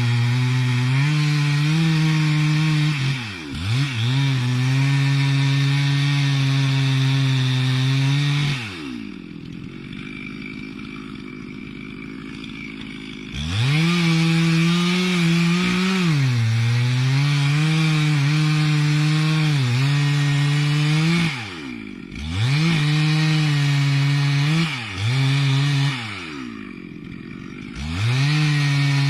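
Two-stroke chainsaw running at full throttle, cutting into a large tree. The throttle is let off several times: brief dips, and two longer spells at idle, about a third of the way in and near the end. Each time it is revved straight back up.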